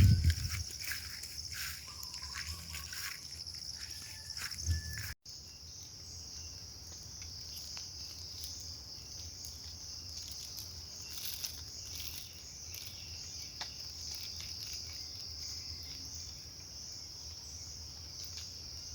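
Insects chirring in a steady high-pitched drone, with a brief dropout about five seconds in. A low thump at the very start is the loudest sound.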